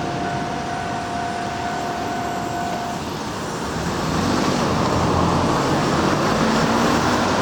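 A JR Nambu Line electric train running over a level crossing, its wheel-on-rail rumble swelling and growing louder about four seconds in. Earlier, a steady whine stops about three seconds in.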